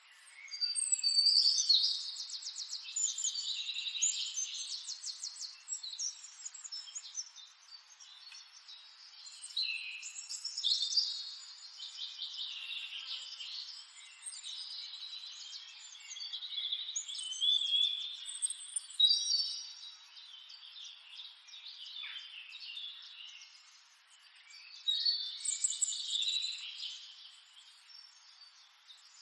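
Birds singing: bouts of high chirping and rapid trilling phrases every few seconds, over a faint steady hiss.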